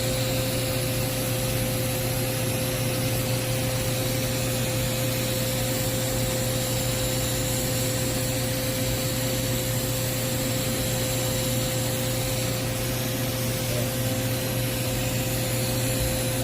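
TIG welding arc on carbon steel pipe running continuously during the cap (final) bead, a steady hiss with a constant low hum and a thin steady tone, unbroken throughout.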